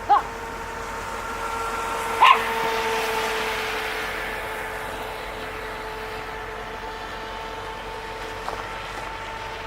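A dog barks sharply twice, about two seconds apart, with a faint yip near the end. Under the barks runs the steady whine of the Hydropro Inception RC boat's electric motor out on the water, and a hiss swells for a couple of seconds as the boat runs past.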